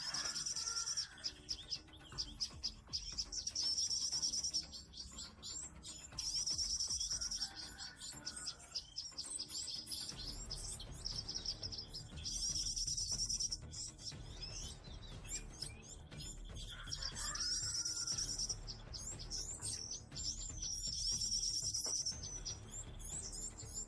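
Small songbirds chirping: bursts of rapid, high twittering lasting about a second, repeated every few seconds, with a lower whistled call now and then.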